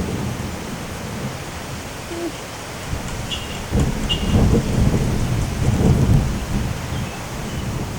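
Thunderstorm with steady rain and wind, and a low rumble that swells about four seconds in and fades a couple of seconds later.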